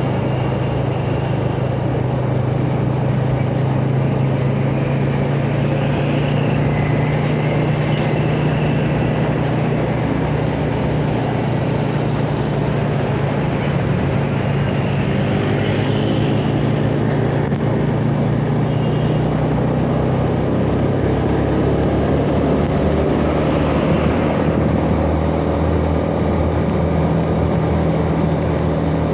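Yamaha Jupiter Z 'Burhan' underbone motorcycle's single-cylinder four-stroke engine running steadily under way. Its pitch drops about twenty seconds in as the revs fall.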